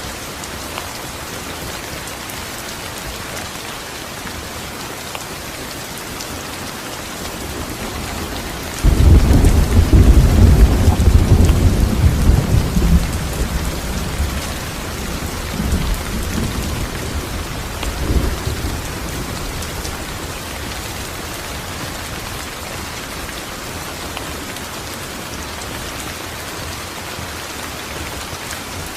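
Steady rain falling, with a roll of thunder that breaks in suddenly about a third of the way through, rumbles for several seconds and fades, followed by two smaller rumbles.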